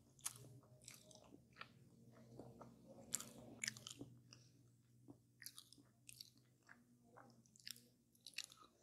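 Close-up chewing and biting of a coconut tart in a pastry shell: quiet, irregular crunchy crackles and mouth clicks over a faint low hum.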